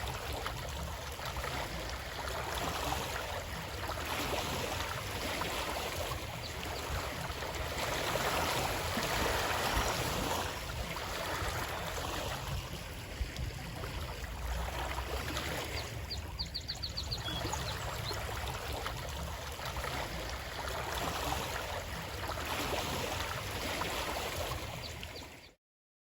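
A stream of water flowing and trickling, a steady rushing that swells and eases, with a strong low rumble beneath it. A brief, rapid, high chirping comes twice. The sound cuts off suddenly near the end.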